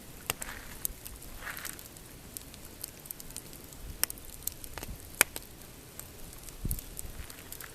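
Pine campfire crackling, with irregular sharp pops and snaps of burning wood, the loudest about five seconds in. Soft splashes of water lapping on a rocky shore come and go beneath it.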